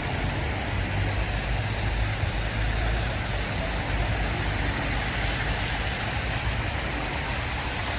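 Steady city-street noise: a continuous low rumble under an even hiss.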